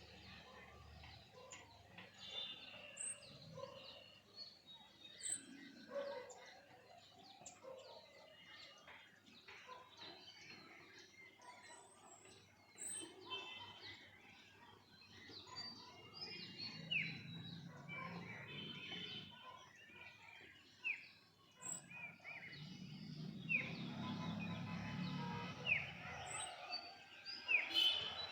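Birds chirping and calling, with many short chirps and repeated quick falling whistle notes in the second half, over low background noise that swells twice.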